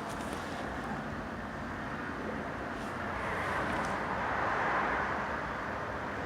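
Steady outdoor traffic noise, with a vehicle passing that swells to its loudest about four seconds in and then fades.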